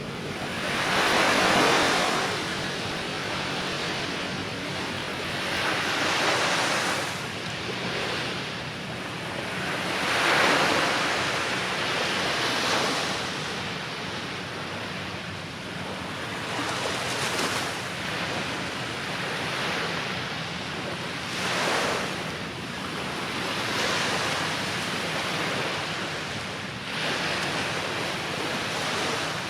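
Sea waves breaking and washing up a beach, the surf swelling and fading every few seconds.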